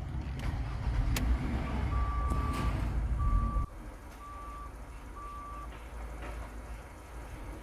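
Ford Transit 2.2 TDCi four-cylinder diesel engine running, then cutting off abruptly about three and a half seconds in. Over this, four short, steady electronic beeps from the vehicle sound about a second apart, and a fainter rumble continues after the engine stops.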